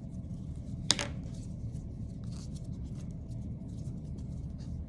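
Light handling sounds of a water-based marker being rubbed onto air-dry clay: faint scratching and rubbing over a steady low hum, with one sharp click about a second in.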